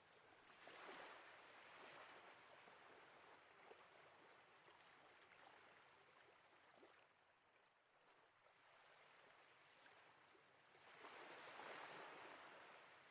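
Faint small sea waves lapping at a harbour wall, a soft watery wash with little trickles. It swells about a second in and again near the end.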